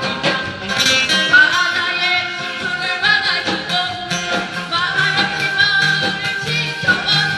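A woman singing a Korean trot song live over an amplified backing band.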